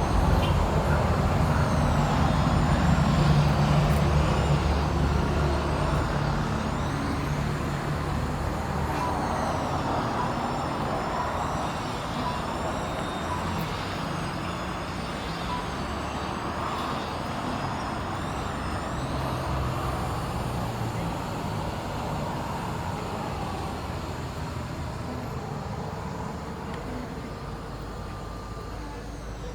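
A vehicle engine running steadily, loudest in the first few seconds and then slowly fading.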